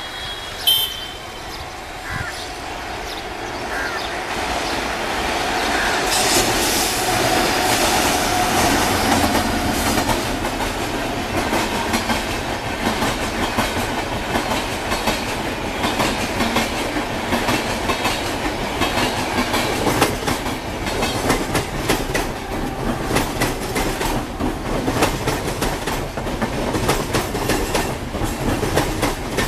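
Electric-hauled Rajdhani Express and a suburban electric multiple-unit train running past together: wheels rumbling and clattering over the rail joints. The sound builds over the first few seconds, then settles into a steady, rapid clickety-clack. A brief high tone with a sharp peak comes about a second in.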